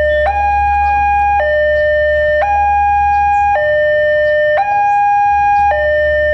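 Railway level-crossing warning alarm sounding: an electronic two-tone signal alternating between a higher and a lower tone about once a second, warning that a train is approaching, over a steady low rumble.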